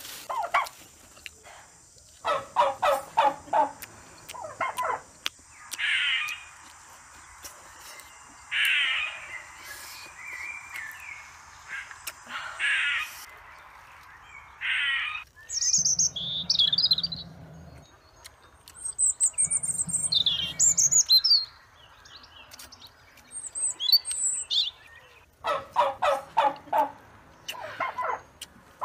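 Birds calling. There are bursts of fast, rapidly repeated calls near the start and again near the end, with higher chirps in between.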